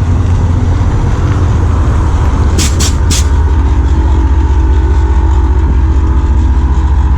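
Car engine running loud with a deep rumble as a car leaves the show. Three sharp clicks come about two and a half to three seconds in.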